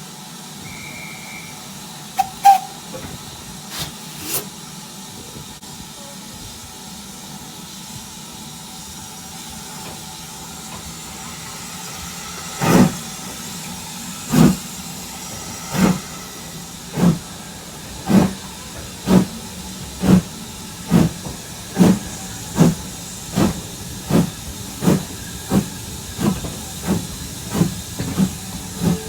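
Steam locomotive hissing steam while standing, with a few sharp clanks, then starting away: about halfway through its exhaust chuffs begin, slow at first and steadily quickening as the train gathers speed.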